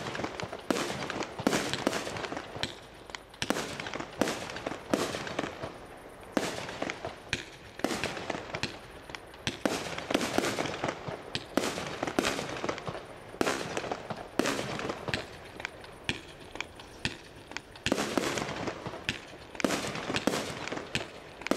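Aerial fireworks launching and bursting in quick succession: a long, irregular string of sharp bangs, one following another a fraction of a second to a second apart, with a noisy rush between them.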